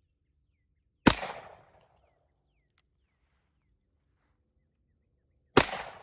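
Two single shots from a Taurus Raging Hunter .357 Magnum revolver, the first about a second in and the second near the end. Each is a sharp crack followed by a short fading echo.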